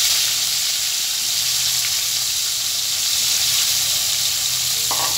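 Potato wedges frying in hot oil in a pan, freshly added: a steady, even sizzle.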